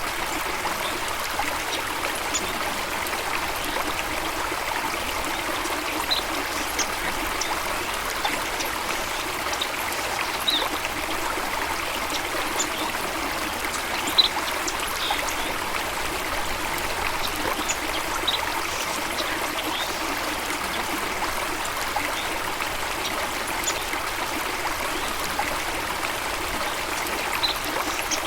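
Running water of a stream trickling and splashing steadily, with brief high sounds scattered through it, one a little louder about halfway through.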